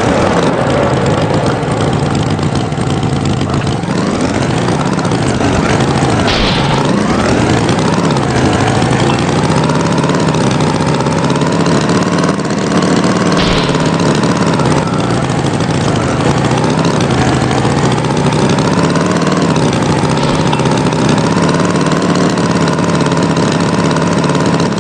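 Tractor engine running steadily, its pitch rising and falling slowly as it revs. Three short sharp noises cut in along the way.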